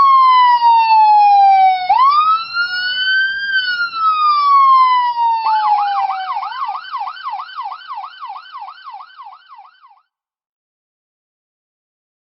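Police car siren: a slow rising-and-falling wail, changing about five seconds in to a fast yelp of about three sweeps a second, fading away and stopping near ten seconds.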